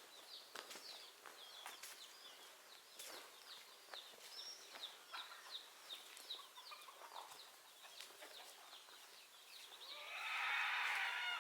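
Chickens: many short, high chirps repeating throughout, with a louder, longer call starting near the end.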